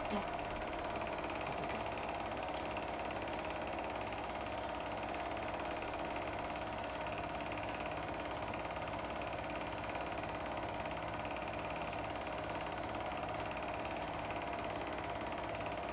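Film projector running steadily, its motor and mechanism giving a continuous even mechanical rattle.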